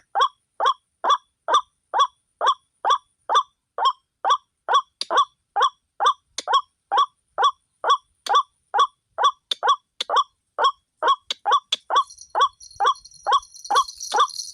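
White-breasted waterhen (ruak-ruak) calling, one short croaking note repeated steadily about twice a second. Near the end a high jingling rattle joins in.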